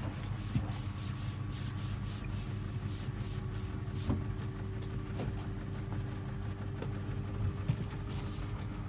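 Hoover DXOA610AHFN-80 washing machine running mid-cycle: a steady motor hum as the drum turns, with a few faint knocks from the load.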